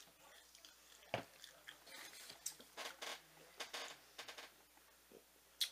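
People chewing food close to the microphone: wet smacking and small clicking mouth sounds, densest in the middle, with a sharp click near the end.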